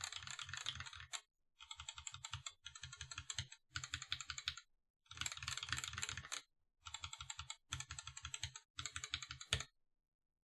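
Mechanical keyboard being typed on with clear-top Gateron Yellow linear switches: fast runs of keystrokes in about eight bursts separated by short pauses, stopping shortly before the end.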